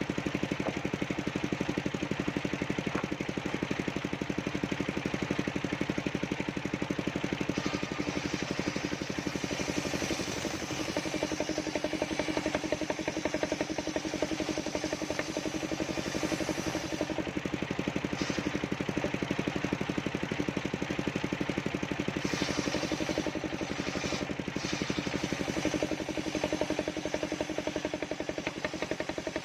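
Engine of a portable circular sawmill running steadily with an even firing pulse. Twice a brighter, higher hiss comes in over it for several seconds.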